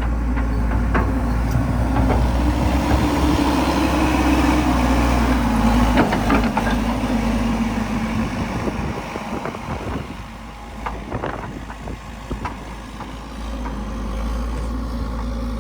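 An engine running steadily with a low hum; its tone sags slightly in pitch about halfway through and the sound eases off after that, with a few scattered knocks.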